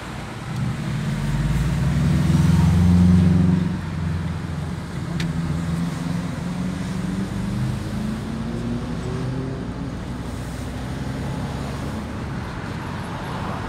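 Car engine heard from inside the cabin as the car accelerates, loudest two to three seconds in and dropping off sharply a little later, as at a gear change, then running on with its pitch slowly climbing again.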